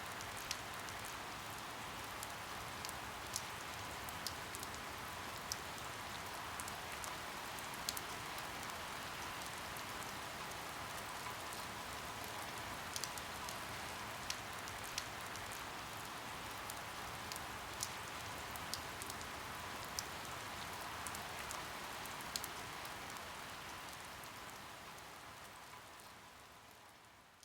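Steady rain ambience, a soft even hiss with scattered crisp drops landing on a surface, fading out over the last few seconds.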